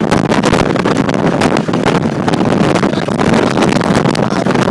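Blizzard wind buffeting the microphone: a loud, constant rush broken by rapid crackling blasts.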